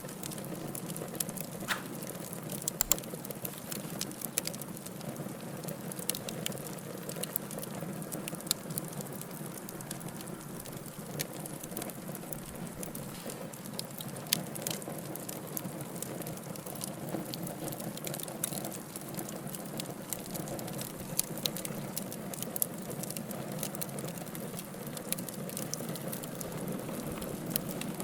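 Wood fire burning in a fireplace: irregular sharp crackles and pops, a few of them louder, over a steady low rush of flame.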